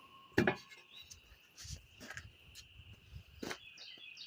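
Crickets chirring steadily in the background, with a few scattered sharp clicks and knocks, the loudest about half a second in.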